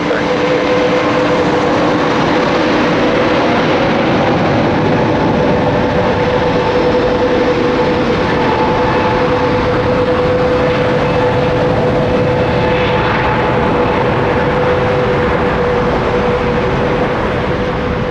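Airbus A321neo's Pratt & Whitney geared turbofan engines at takeoff power on departure: a loud, steady jet rush with a steady hum running through it.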